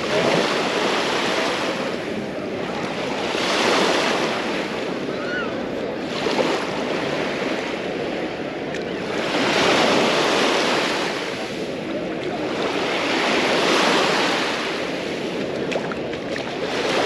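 Small Mediterranean waves breaking and washing up the beach. The wash swells and fades in a slow rhythm, about every three to four seconds, with some wind on the microphone.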